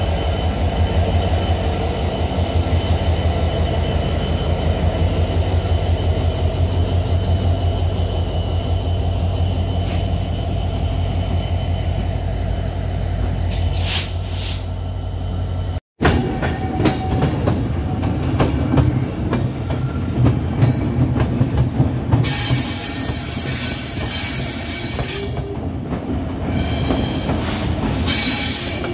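Diesel locomotive engine running with a low, throbbing drone as the train moves slowly beside it. In the second half a passenger train rolls along a platform with wheel noise, and steady high-pitched wheel and brake squeal sets in about two-thirds of the way through.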